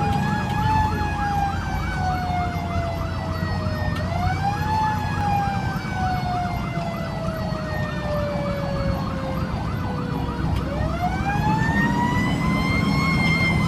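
Fire engine sirens sounding together: a Federal Q mechanical siren slowly winding down in pitch and being spun back up twice, over an electronic siren on a fast yelp of about four cycles a second. The truck's engine rumbles low underneath.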